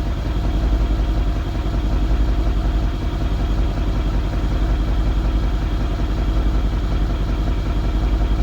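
Mercedes-AMG CLS63 S's twin-turbo V8 idling steadily through its exhaust, still cold from a cold start.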